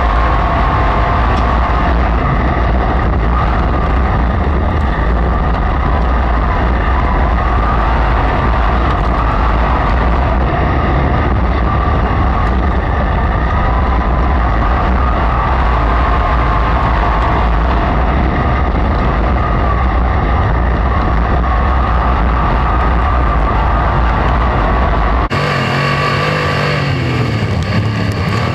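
Racesaver sprint car V8 engine running hard at racing speed on a dirt oval, a loud steady drone with heavy low rumble. About three seconds before the end the sound changes abruptly to a clearer engine note that rises and falls in pitch as the car revs up and backs off.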